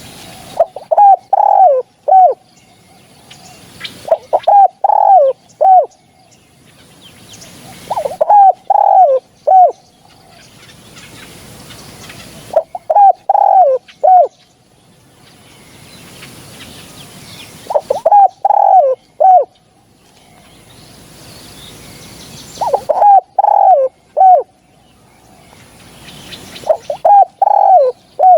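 Spotted dove cooing: seven short phrases, one every four to five seconds, each a few quick coos ending in a note that falls in pitch.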